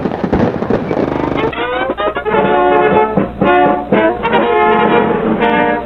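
Fireworks crackling and popping for about the first second and a half, then an abrupt cut to brass music playing a run of held notes.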